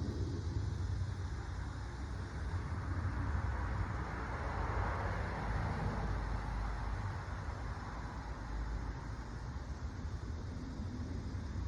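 Steady low rumble of vehicle traffic, swelling about halfway through as a vehicle passes.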